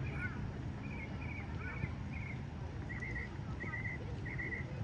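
A bird chirping: short warbling notes repeated two or three times a second, some dipping in pitch, over a steady low outdoor rumble.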